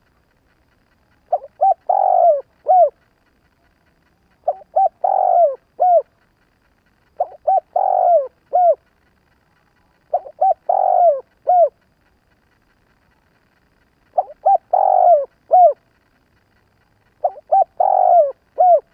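Spotted dove calling, the decoy bird's cooing call used to draw in wild doves: six phrases, one every three seconds or so, each two short coos, a longer rolling coo and a short closing note.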